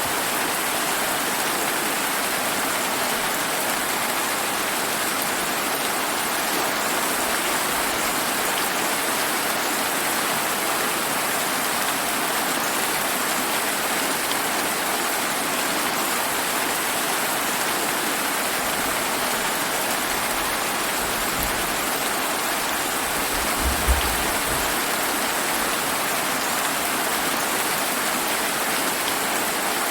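Steady summer rain falling heavily and evenly, with one brief low rumble of thunder a little over two-thirds of the way through.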